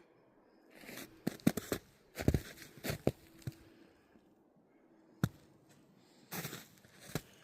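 Footsteps crunching in snow: an uneven run of crunchy steps, a pause, then a sharp snap a little past five seconds and more crunching near the end.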